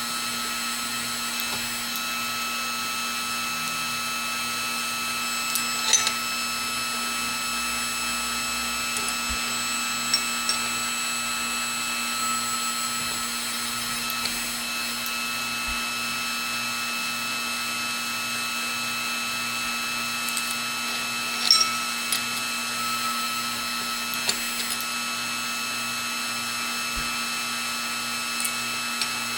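An electric shop machine's motor runs steadily with a steady whine, while metal is worked at it. A few sharp taps or clicks come through: about six seconds in, around ten seconds in, and twice near twenty-one seconds.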